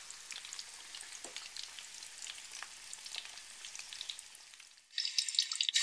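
Breaded chicken breasts frying in hot oil in a pan, a steady crackling sizzle with scattered pops. About five seconds in it turns much louder and denser.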